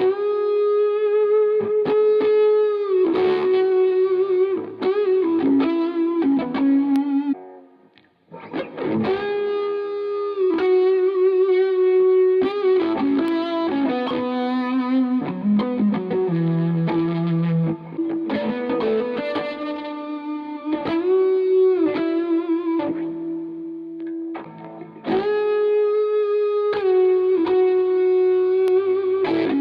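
Epiphone solid-body electric guitar playing a single-note lead melody through overdrive and effects, with long held notes, vibrato and string bends. The playing comes in phrases, with a brief pause about eight seconds in.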